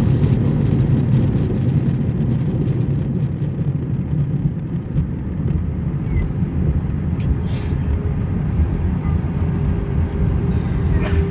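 Airbus A320 cabin noise on the ground after landing: a steady low rumble of the engines and the rolling airliner, heard from inside the cabin. A steady hum joins about eight seconds in, and there are a few light clicks.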